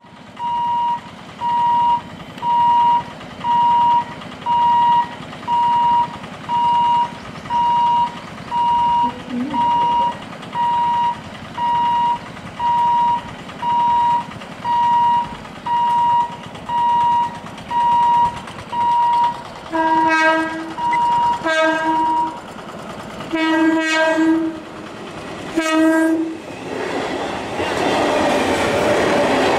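A level-crossing warning hooter beeps steadily about once a second. Then an ICF Medha EMU local sounds its electric horn in four short blasts. Near the end the train runs past over the crossing, its wheels rumbling and clattering.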